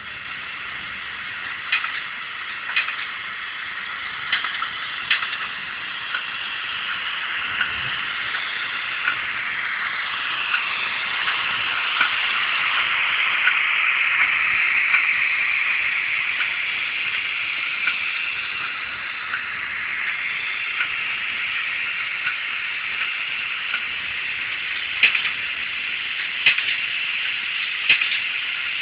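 Roco Ce 6/8 II 'Crocodile' model locomotive's LokSound 3.5 sound decoder playing electric-locomotive running sounds through its small speaker. The sound swells to its loudest about halfway through and then eases off, with scattered short sharp clicks throughout.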